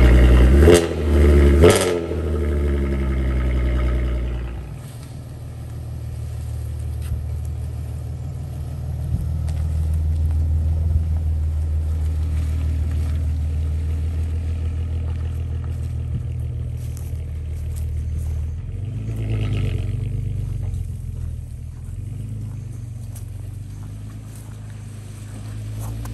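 2008 Volkswagen Golf R32's VR6 engine, still cold from its first start after winter storage, blipped twice in quick succession through the twin exhausts. It then runs at low revs under light throttle as the car rolls off slowly, the engine note rising and falling.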